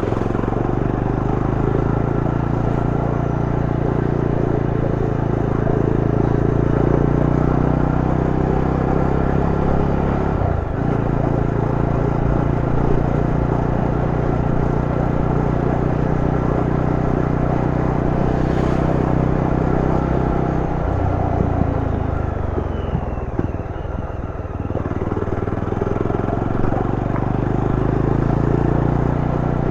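Yezdi Roadster's single-cylinder engine running under way on the move. It holds a steady pace with a brief break about ten seconds in, drops in pitch as the bike slows around twenty seconds in, then picks up again near the end.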